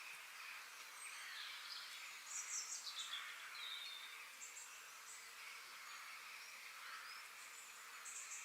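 Faint outdoor nature ambience: a steady high hiss with birds chirping over it, a run of quick falling chirps about two and a half seconds in and another short chirp near the end.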